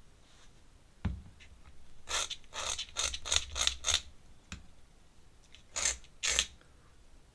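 A pen scratching on paper in a run of short, quick strokes, with a single click about a second in and two more strokes near the end.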